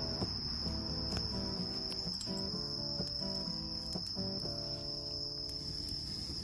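Autumn night insects, crickets, calling in a steady high continuous trill, with pitched background music under them.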